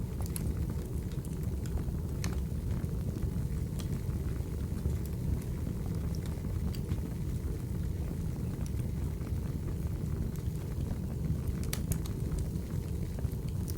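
Firewood burning: a steady low rumble of flames with scattered sharp crackles and pops.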